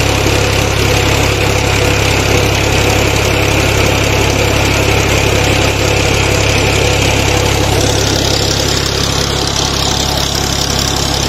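Tractor's diesel engine running steadily while it drives a tubewell pump through a belt off its tyre.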